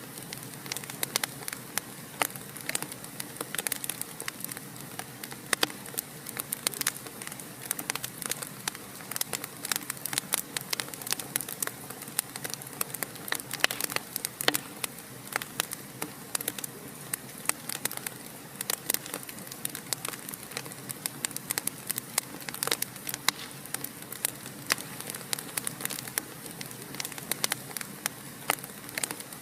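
Wood fire burning steadily in a fireplace, with dense, irregular crackles and pops over a low hiss.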